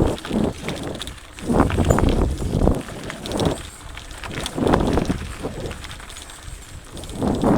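Mountain bike riding over a rough dirt trail: tyres crunching over rocks and roots, with the bike clattering and rattling in uneven surges that come and go every second or so.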